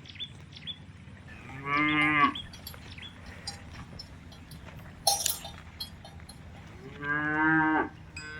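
Cows mooing twice: a short moo about two seconds in and a longer one near the end. A brief sharp clank comes in between.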